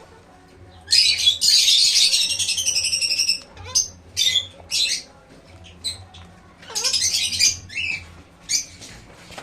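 Parrot squawking: a long harsh screech starting about a second in and lasting over two seconds, then a run of shorter squawks and chirps.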